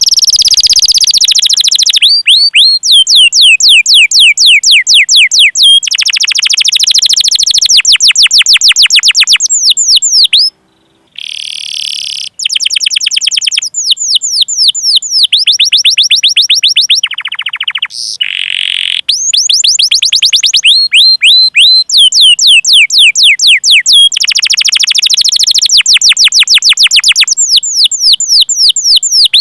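Domestic canary singing loud, long rolling runs of rapid, repeated high down-slurred 'cuit cuit' chirps, broken by short pauses and one brief silence about ten seconds in.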